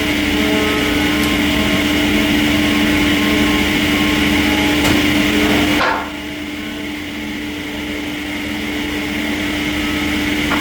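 Sawmill machinery running with a steady hum and noise. About six seconds in, the sound drops suddenly, then slowly grows louder again.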